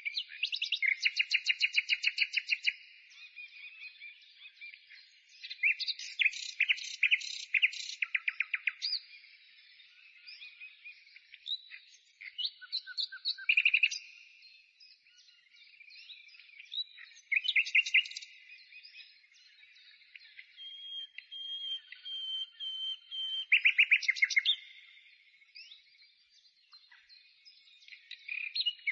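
A small songbird singing: phrases of rapid trills and chirps, each a second or two long, repeated with short pauses between.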